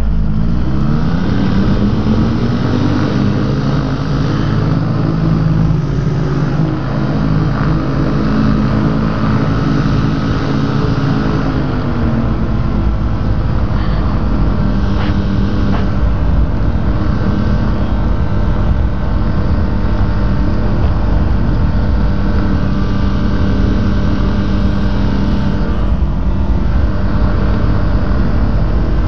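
Rotax engine of a Quad City Challenger open-cockpit ultralight opening up to takeoff power, its pitch rising over the first couple of seconds and holding steady, then easing down a little about twelve seconds in. Heavy wind rushes over the open cockpit throughout.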